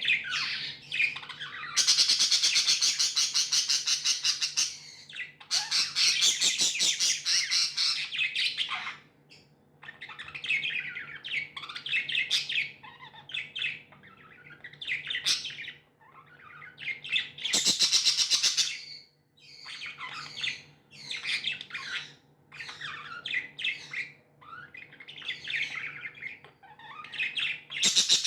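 Pet budgerigars chirping and chattering in a rapid run of short, varied calls. It is broken by several longer, harsh rasping squawks, which are the loudest sounds.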